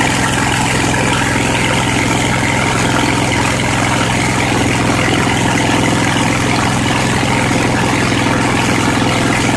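Briggs & Stratton 22 HP Intek V-twin engine running steadily at a constant speed, with no exhaust gaskets fitted.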